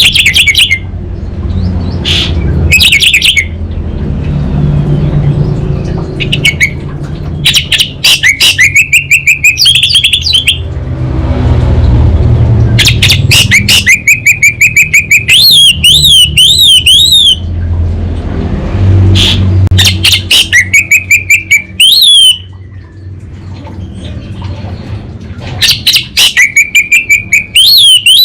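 Orange-headed thrush singing: rapid stuttering clicking runs, like a shorting wire, each leading into clear whistled phrases that wobble up and down, repeated several times. A steady low rumble runs underneath.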